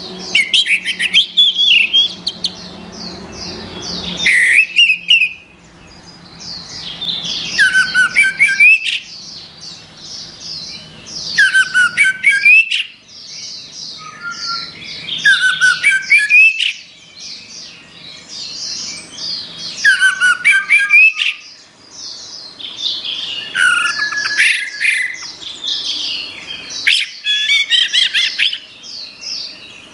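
Orange-headed thrush singing: loud phrases of rapid falling whistles and trills, one every three to four seconds, with quieter twittering between them.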